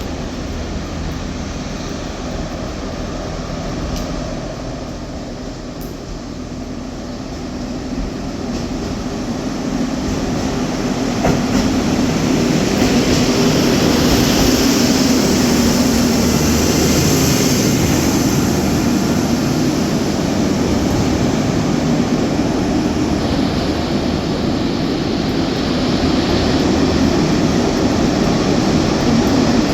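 A train moving through the station, its running noise building from about eight seconds in and staying loud to the end.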